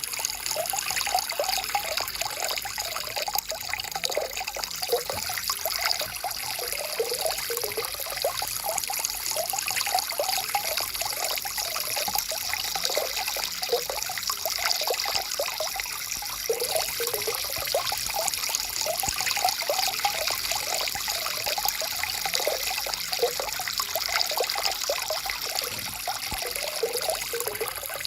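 Small stream flowing and trickling over stones, with a steady splashing babble.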